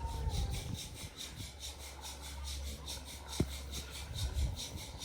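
A handsaw cutting wood with quick, even rasping strokes, about four a second. There is a single sharp click a little past the middle.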